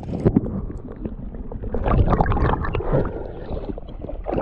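Muffled water sloshing and splashing around a person wading in a flooded river, with irregular knocks and swells, louder about two seconds in and again at the end, as a Murray cod is let go by hand.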